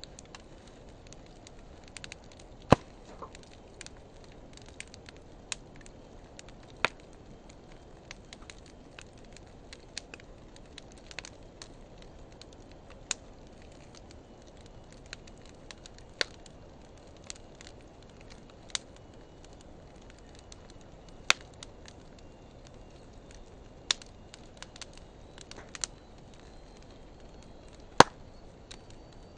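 Wood fire of driftwood and dry hardwood logs burning with a steady soft hiss, broken by irregular sharp crackles and pops, a few of them much louder than the rest.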